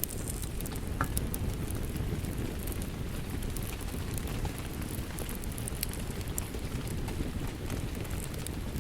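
Steady rain mixed with a wood fire crackling: an even low rush with scattered sharp crackles and pops over it.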